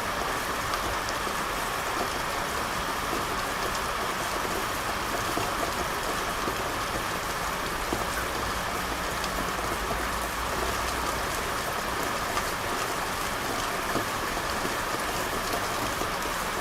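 Steady rain falling on a hard surface, a constant even hiss sprinkled with the ticks of individual drops. A faint low rumble runs under it from about halfway in for a few seconds.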